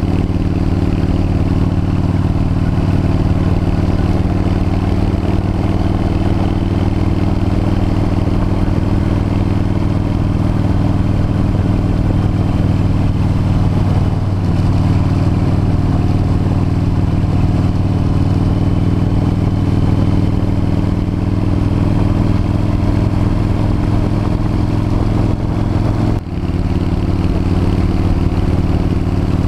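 V-twin cruiser motorcycle engine running steadily at road speed, with a brief drop in level about 26 seconds in before it picks up again.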